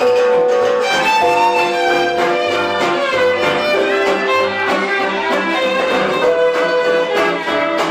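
Live band music: a melody line of long held notes that change every half second or so, over steady accompaniment.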